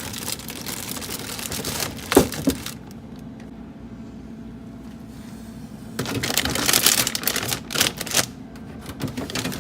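Plastic refrigerator drawers and food containers being handled: sliding, rattling and clicking in two bouts, with a sharp knock about two seconds in.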